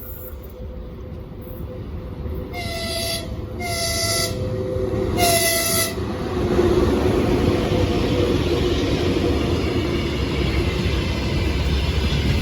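VL80S AC electric locomotive at the head of a freight train, sounding its horn in three short blasts and growing louder as it approaches. From about six seconds in comes loud, steady rolling noise of the locomotive and wagons passing close by.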